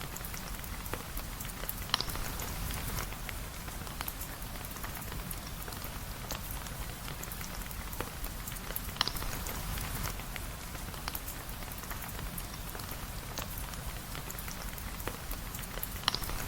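Steady rain falling, mixed with the crackle of a fireplace: an even hiss over a low rumble, with many small clicks and three sharper pops about seven seconds apart.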